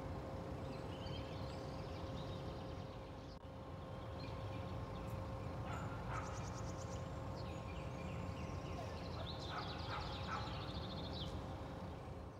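Songbirds calling with short, rapid trills and chirps, several times, over a steady low rumble and a faint constant hum.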